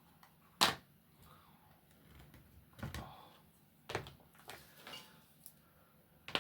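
Small objects handled on a work surface: one sharp click about half a second in, then a few softer knocks and some faint rustling.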